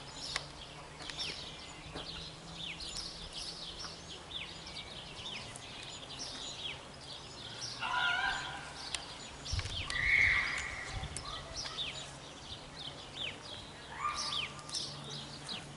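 Small songbirds chirping, many short quick calls overlapping. About eight and ten seconds in, a brief high voice-like call rises over them, with a short low rumble around ten seconds.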